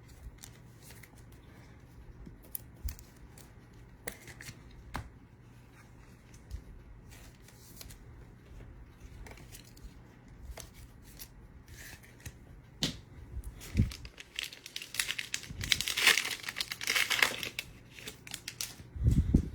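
Foil wrapper of a trading card pack crinkling and tearing open, densest and loudest in the last few seconds, after a stretch of scattered small clicks from handling. A low thump comes just before the end.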